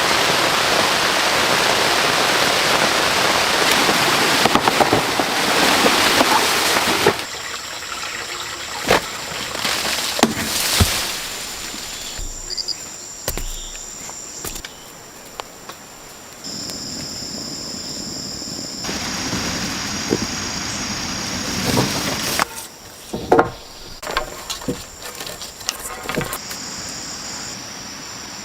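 Rainforest sounds: steady heavy rain for about the first seven seconds, then it gives way suddenly to insects calling in steady high tones that change several times. Scattered sharp knocks and clicks sound over the insects.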